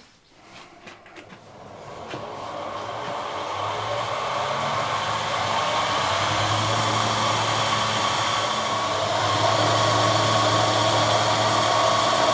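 A few light clicks, then an electric motor of a workshop machine starts and runs up over a few seconds to a steady hum and whirr.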